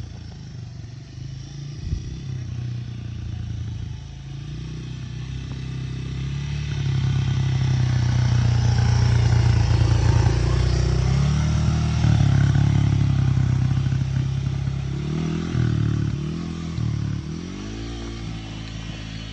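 Dirt bike engine running, growing louder through the middle, then revved in a few rising pitch sweeps near the end.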